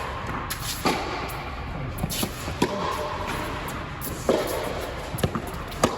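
Tennis rally: sharp pops of the ball off racquet strings and thuds of it bouncing on the court, about six impacts a second or so apart at an uneven pace.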